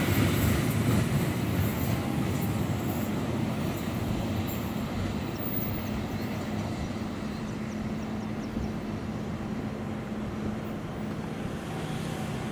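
Cement freight train running along the track, a steady rumble of wagons slowly fading. A low steady hum comes in during the second half.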